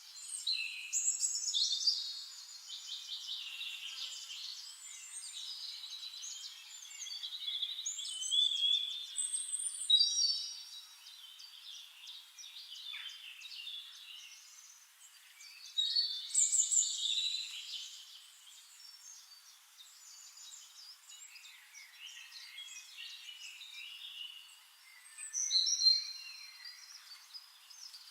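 Several birds singing, an overlapping chorus of high chirps and quick trills that swells in louder spells every several seconds.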